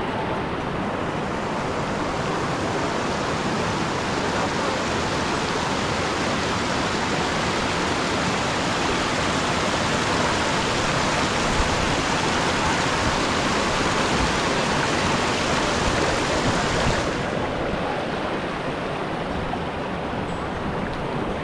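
Stream water rushing steadily, a continuous hiss; its higher part drops away suddenly near the end.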